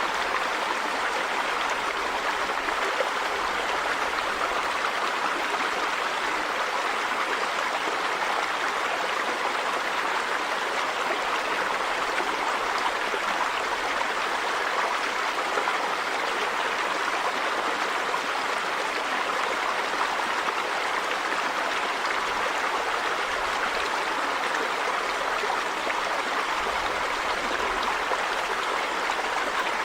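Running river water, a steady rushing flow.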